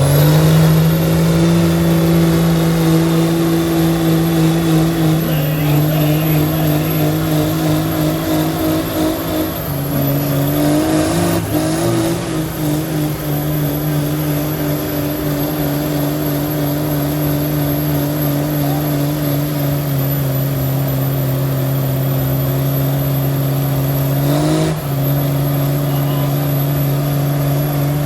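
Truck engine revved up and held at high revs under load, straining in a truck tug-of-war pull: a steady, loud drone whose pitch steps down slightly a few times.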